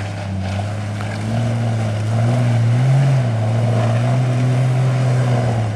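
Jeep engine running under load as it crawls up a steep rock ledge: a steady low drone whose pitch rises briefly about three seconds in.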